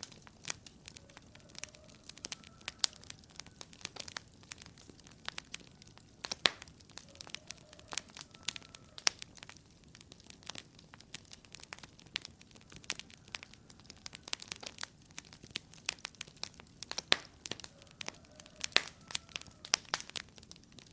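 Wood fire crackling in a fireplace: irregular sharp pops and snaps, some much louder than others, over a soft steady hiss of burning.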